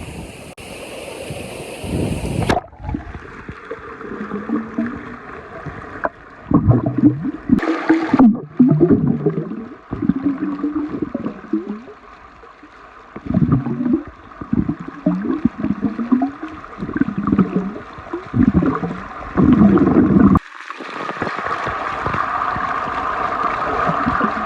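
Forest stream and waterfall water rushing, with loud, irregular gurgling and splashing close to the microphone. A steady rush takes over near the end.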